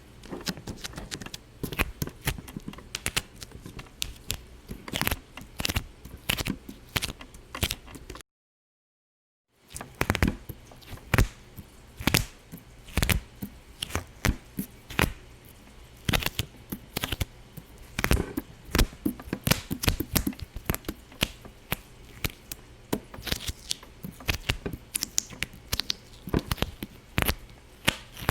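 Irregular popping and clicking, several sharp pops a second, broken by a short dead silence about eight seconds in.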